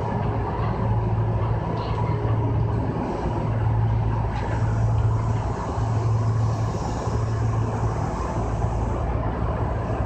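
Kintetsu 6020-series electric commuter train running, heard from just behind the front cab: a steady low hum over continuous rolling noise of wheels on rail.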